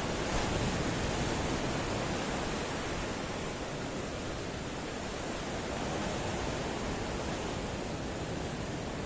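Ocean surf: a steady rushing wash of waves, swelling slightly just after the start.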